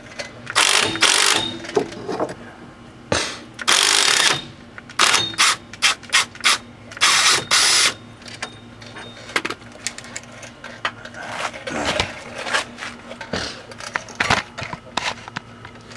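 Socket ratchet working a T55 Torx bit on a rusted wheel hub mounting bolt, clicking in uneven bursts with clinks of the tool, busiest in the first half and sparser towards the end.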